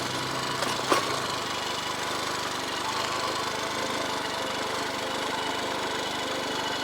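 Motorcycle engine running steadily, with a sharp click about a second in.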